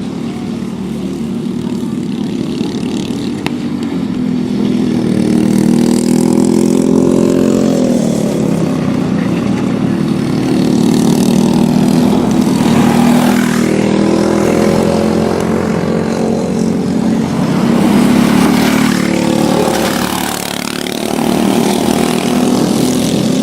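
Several Briggs & Stratton Animal single-cylinder four-stroke kart engines racing together. Their overlapping pitches rise and fall as the karts accelerate, lift and pass by, swelling and fading every few seconds.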